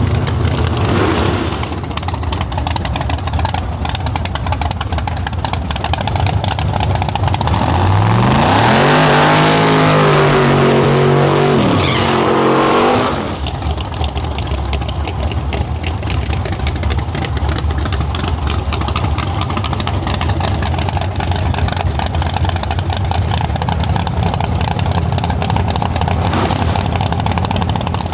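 Chevy LUV pickup's engine running steadily, revved up once about a third of the way in, held for a few seconds and let fall back to idle.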